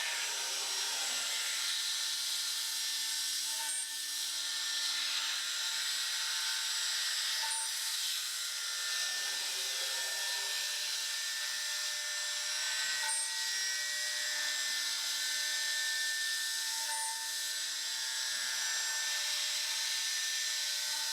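CNC router spindle milling aluminium with an end mill, a steady high-pitched whine over cutting hiss. The note shifts briefly every few seconds, as the cutter cleans up the pocket's corners in shallow passes.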